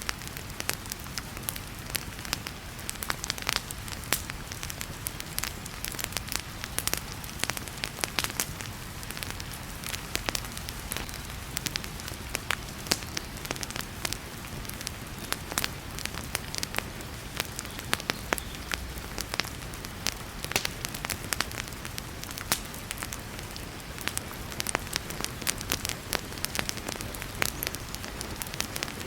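Wood fire in a fireplace crackling, with frequent irregular sharp pops, over the steady hiss of heavy rain.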